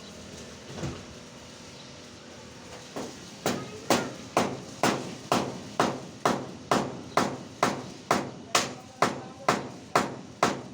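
Steady hammering, about two blows a second, each with a short ringing tail. The steady run begins about three and a half seconds in, after a couple of single knocks.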